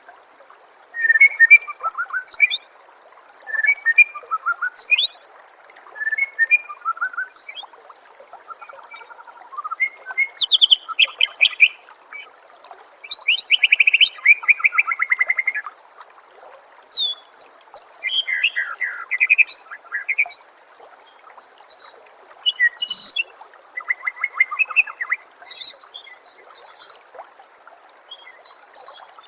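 White-rumped shama (murai batu) singing: a run of short, varied phrases of quick whistled notes and sweeps, one every second or two with brief pauses between them, over a faint steady background hiss.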